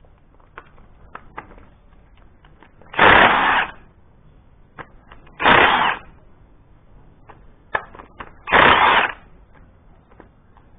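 Impact wrench fired in three short rattling bursts a few seconds apart, with light metallic clicks of tools and parts between them, as bolts are run off the tractor.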